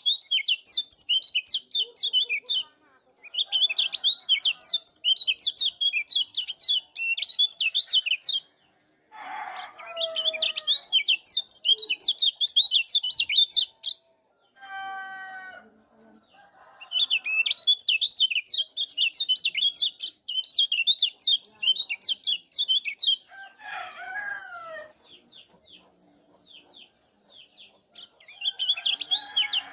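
Kecial kuning (a Lombok white-eye) giving fast, chattering runs of high "ciak" calls in several long bouts, with short pauses between them and a quieter stretch near the end. A few lower calls from another bird fall in the gaps.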